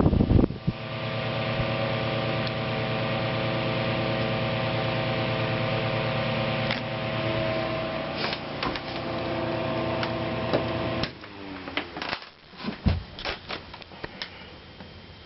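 1920s Star-Rite 6-inch AC table fan motor running with a steady hum and a rush of air. About eleven seconds in the hum stops and the motor winds down, followed by a few clicks and knocks.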